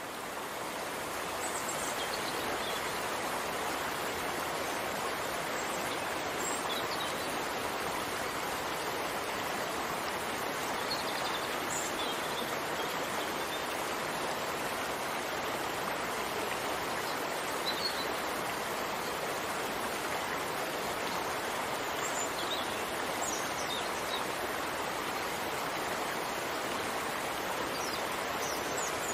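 Steady, even hiss of falling rain, with a few faint high-pitched chirps scattered through it.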